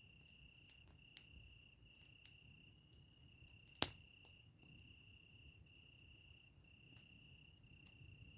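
Campfire crackling with faint sparse clicks and one loud sharp pop a little before the middle. Behind it a cricket trills on one high note, in pulses of under a second.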